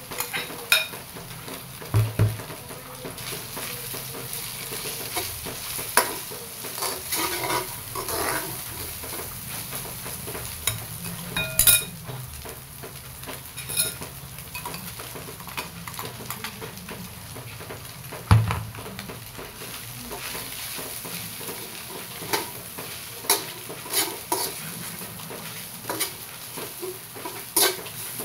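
Milkfish (bangus) flakes sizzling as they fry in oil in a stainless steel wok, with a spatula clicking and scraping against the pan as they are stirred. Two low thumps, about two seconds in and again past the middle.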